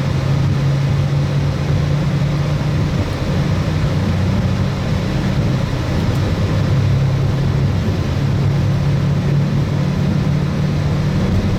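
Steady low drone of a Boeing 737 MAX 8's CFM LEAP-1B turbofan engines and airflow, heard inside the airliner, with the low hum slowly swelling and easing.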